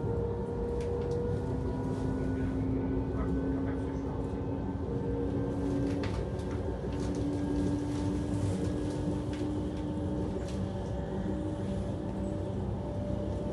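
Steady rumble of a moving electric passenger train heard from inside the carriage, with a faint motor whine that drifts slowly in pitch and a few light clicks.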